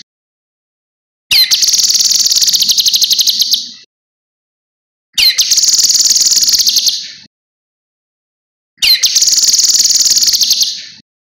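Cucak kinoi songbird singing three bursts of about two seconds each, a second or two apart: each opens with a quick falling note and runs into a fast, shrill rattling trill.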